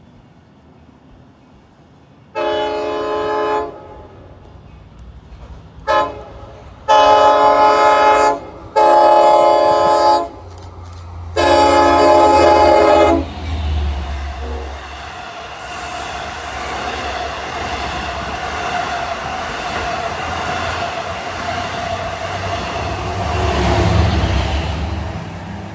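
A train's multi-chime air horn sounds a series of blasts, four long ones and one short toot, then the train passes with a rising rumble and wheel noise that is loudest a couple of seconds before the end.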